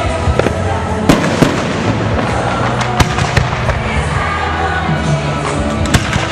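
Fireworks shells bursting in a run of sharp bangs, the biggest about a second in, again around three seconds in and near the end, over music playing throughout.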